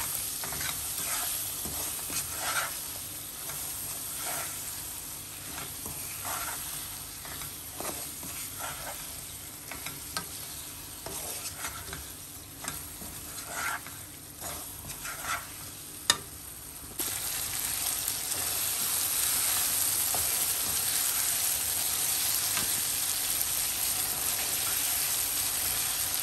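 Chicken, tomatoes and spices sizzling in hot oil in a non-stick wok while a wooden spatula stirs and scrapes them around the pan in short strokes; the sizzle turns louder and steadier about two-thirds of the way in. This is the bhuna stage, frying the masala until the tomatoes break down and their skins separate.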